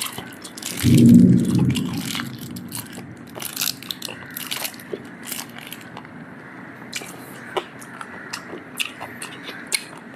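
Close-up chewing and biting of food, many small crunchy clicks and smacks. A loud, low, humming voice sound comes about a second in.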